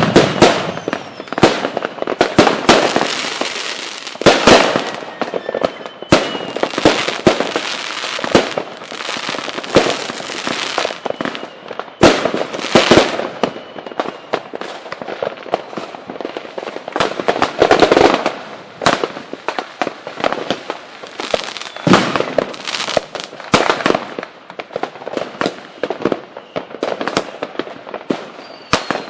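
Fireworks display going off: a rapid, continuous run of loud bangs and crackling.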